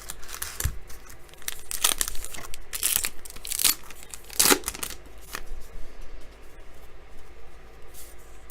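A trading card pack wrapper being torn open and crinkled in the hands, in irregular rips and rustles that are busiest in the first half.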